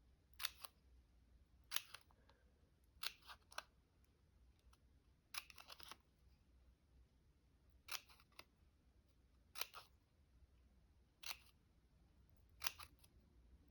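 Scissors snipping paper in short, sharp cuts, some single and some in quick pairs, one to two seconds apart.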